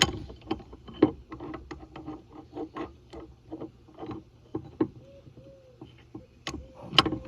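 Irregular clicks, knocks and clatter of hand tools and parts being handled under a truck's dashboard, with a sharp knock about a second in and another near the end.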